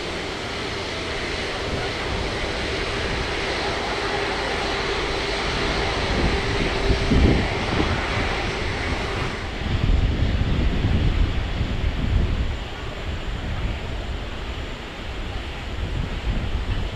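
Airbus A330-300 freighter taxiing, its jet engines running at low power as a steady whine and rush. Wind buffets the microphone with gusty low rumbles, more so in the second half.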